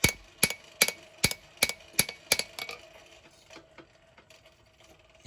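Blacksmith's hammer striking hot steel on an anvil, about two and a half blows a second, each with a short metallic ring, drawing out the length of a knife blade. The blows stop about two and a half seconds in, leaving only a few faint taps.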